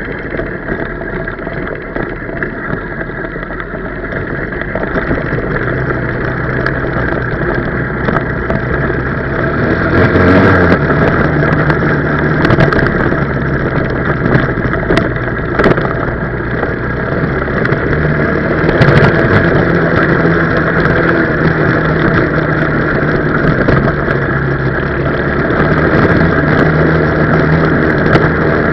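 125cc four-stroke pit bike engine running under way, its pitch stepping up and down with the throttle and gears. It gets louder over the first ten seconds and then stays loud, with a few sharp clicks.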